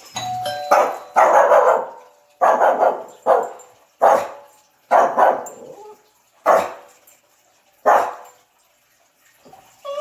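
A doorbell chime, then a Shih Tzu barking: a string of loud barks about a second apart that die away near the end.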